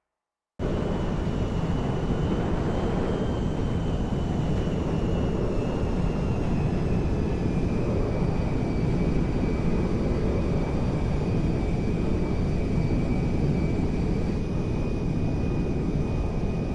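Airplane engine noise: a steady, even rumble with a thin high whine that drifts slightly lower in pitch and then holds. It starts after a short silent gap about half a second in.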